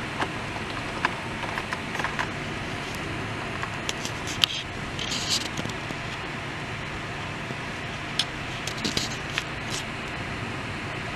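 Heavy thunderstorm rain falling with a steady hiss, with scattered sharp ticks and taps throughout.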